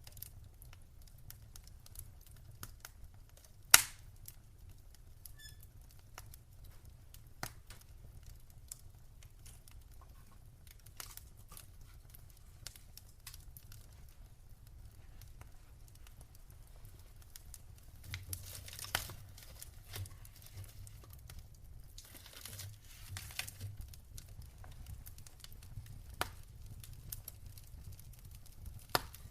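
Wood fire in a fireplace crackling, with scattered sharp pops and one loud pop about four seconds in. Short spells of hissing come in the second half.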